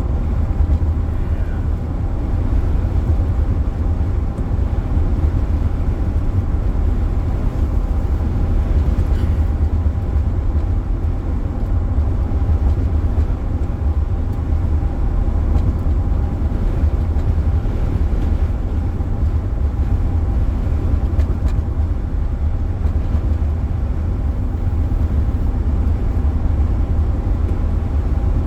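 Steady low road and engine rumble of a car being driven, heard from inside the cabin, with a faint steady hum running through it.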